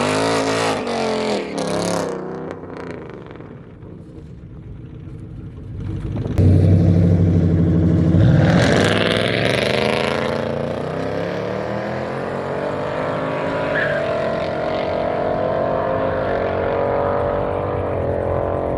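Drag-racing cars' engines at a street-tire race. The engine note drops away, then comes in suddenly loud about six seconds in, and its pitch climbs steadily as the cars accelerate down the strip.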